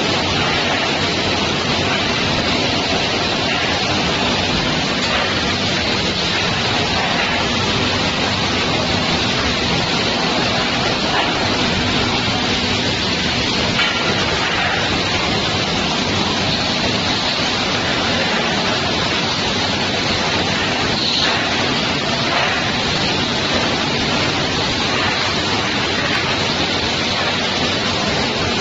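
Automatic plastic crate washer running: a steady rush of water jets spraying the crates, with a faint machine hum underneath.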